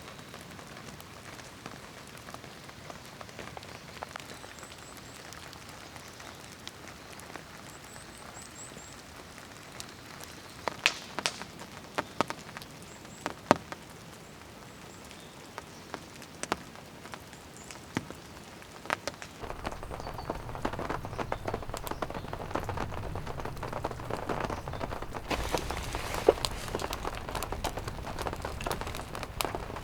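Rain falling, with single heavy drops tapping sharply from about ten seconds in. About twenty seconds in the rain grows louder and fuller.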